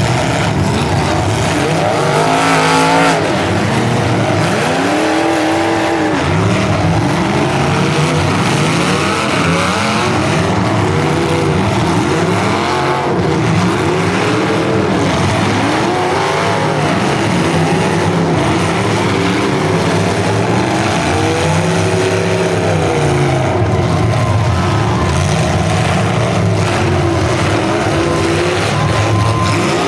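Several full-size demolition derby cars' engines revving up and down at once, overlapping in rising and falling pitches as the cars accelerate and back off in the arena.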